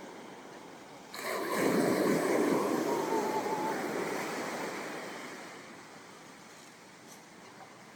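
Ocean wave breaking on the shore about a second in, its wash surging up and then slowly fading over several seconds, over a low steady surf.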